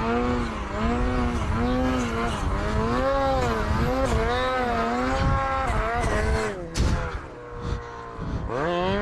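Snowmobile engine with an aftermarket exhaust held at high revs, its pitch wavering up and down as the sled digs into deep powder. It falls off a little before halfway through the last third, then revs up sharply near the end.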